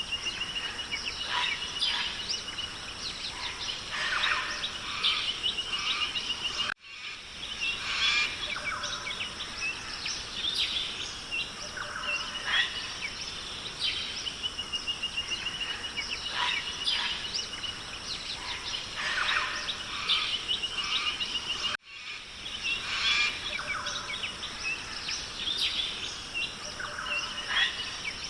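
Rainforest ambience: assorted bird calls and a bird's rapid trill recurring over a steady high hiss. The sound drops out briefly twice, where the recording loops.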